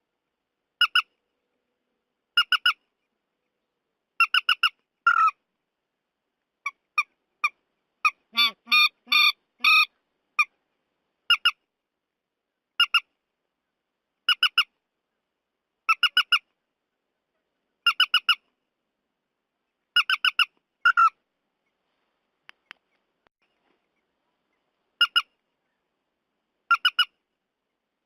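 Repeated calls of the bird known in Vietnam as trích ré, from a lure recording: short calls in pairs or threes every one to two seconds, with a denser run of harsher calls about eight to ten seconds in.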